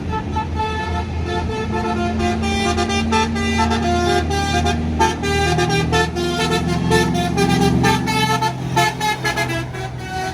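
A bus's multi-tone 'basuri' (telolet) horn playing a quick run of changing notes, over the steady running of a large engine.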